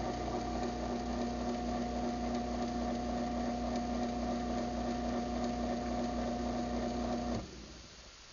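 Craftsman 1/2 hp garage door opener motor running through its closing cycle with a steady hum, then shutting off abruptly about seven seconds in as the close travel ends.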